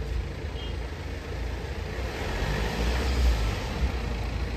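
Engine of a parked BMW 3 Series saloon running, a low steady rumble that swells a little about halfway through.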